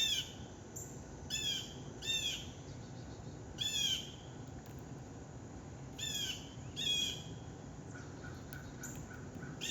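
A songbird calling repeatedly: short, clear notes that slide down in pitch, given about six times in uneven spacing. Near the end there is a brief run of quick, lower notes.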